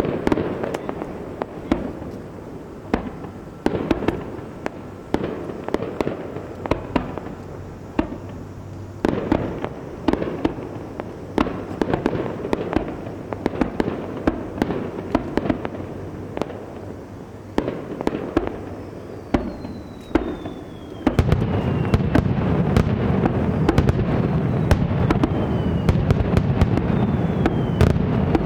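Aerial fireworks bursting, a sharp bang every second or so. About two-thirds of the way through they step up into a louder, dense, continuous crackle of many bursts, with a few short falling whistles.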